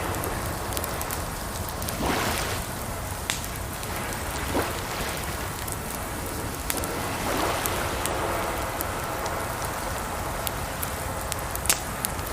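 Campfire crackling with scattered sharp pops over a steady rush of water, with a few brief swelling swishes.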